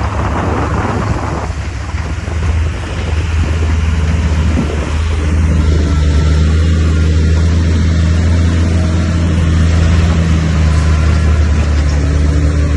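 Diesel engine of a heavy earthmoving machine running steadily, a deep drone that grows louder about five seconds in.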